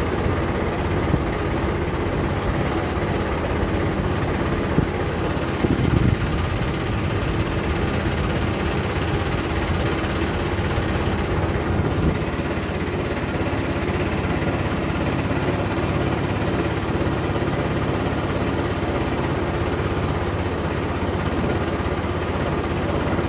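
Motorboat engine running steadily, a low even hum, with a couple of brief knocks about five to six seconds in.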